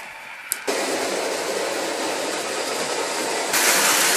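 Electric toy train running on its track: a click, then a steady mechanical noise that starts abruptly and steps louder near the end.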